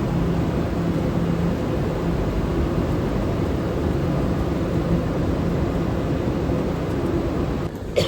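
Steady mechanical drone of a train in the station, a low hum under a hiss. It cuts off abruptly near the end with a sharp click.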